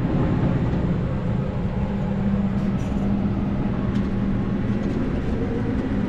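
Farm tractor engine running at a steady speed, an even drone with no change in pitch.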